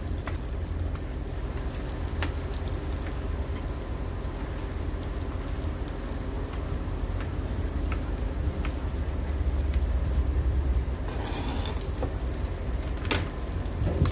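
Ground meat sizzling in a pot on a camp gas stove, a steady hiss, with faint scattered knife taps on a plastic cutting board as a tomato is sliced and a sharper clack near the end. A steady low rumble runs underneath.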